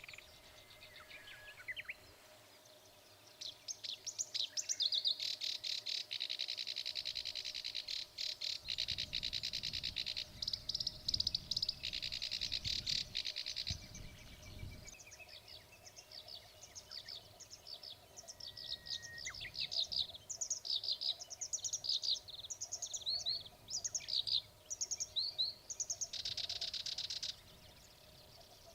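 Black-browed reed warbler singing: long runs of rapid, buzzy, grating notes alternating with varied short sharp whistled and chattering notes, repeated phrase after phrase.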